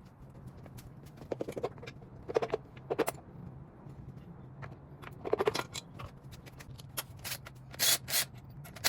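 A few short knocks and clinks of engine parts being handled, with a couple of brief rustling hisses near the end, over a steady low hum.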